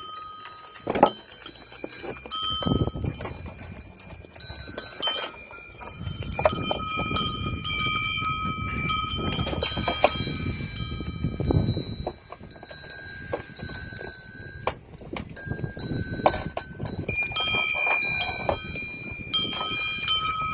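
Many goat neck bells clanking and ringing irregularly at several pitches as a herd of goats moves, over a rough low rustling noise.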